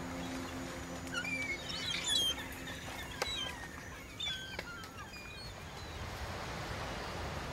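Birds chirping: short whistled calls that bend up and down in pitch over a faint steady hiss, thinning out after about five seconds.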